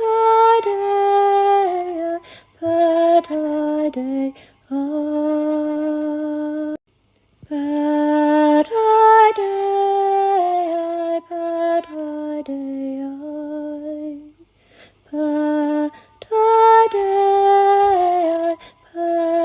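A woman's solo voice singing slow, long held notes in phrases separated by short pauses, the melody stepping up and down gently.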